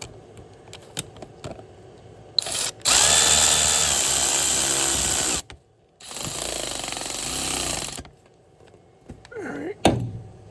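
A handheld power tool runs in bursts: a short blip, then a steady run of about two and a half seconds that cuts off suddenly, and after a brief pause a second run of about two seconds.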